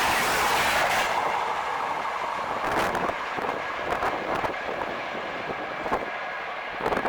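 Express train running past at about 130 km/h. The loud rush of the passing coaches eases about a second in, and sharp clacks of wheels over rail joints follow at uneven intervals as the train draws away.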